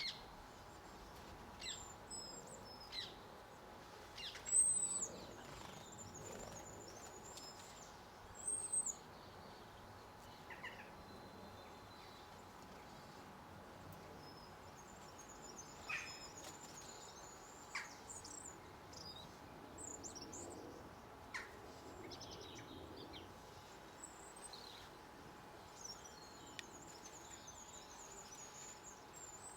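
Small garden birds chirping, with short, high calls scattered throughout, the loudest about four and a half and eight and a half seconds in, over a steady faint background hiss.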